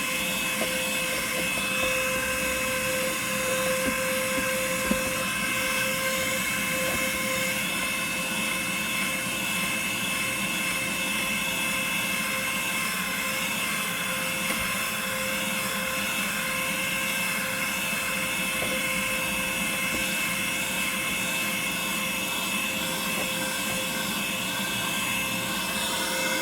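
Small handheld vacuum cleaner running steadily with a high motor whine, sucking up debris while cleaning the car.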